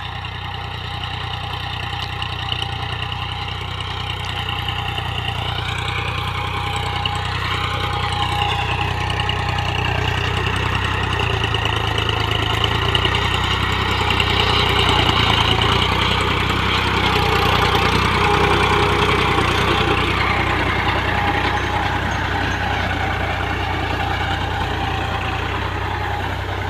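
Powertrac 439 tractor's three-cylinder diesel engine running steadily under load while pulling a cultivator through hard soil, its pitch wavering briefly about a quarter of the way in.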